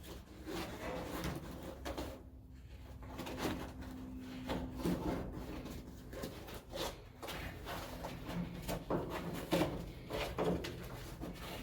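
Scattered light knocks, rubs and rustles of material being handled, over a faint steady hum that fades about five seconds in.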